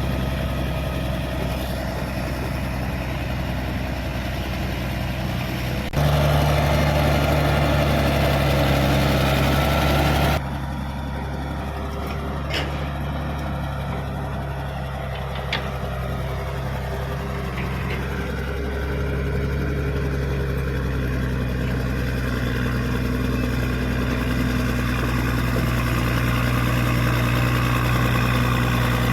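Caterpillar D6D bulldozer's diesel engine running steadily with a low, even drone. It jumps louder about six seconds in and drops back about four seconds later, and a couple of sharp clicks come midway.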